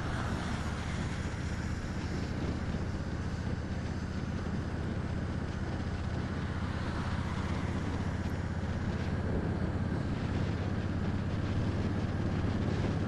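Honda Sabre 1300 V-twin motorcycle engine running steadily at a slow cruise, with wind rushing on the microphone.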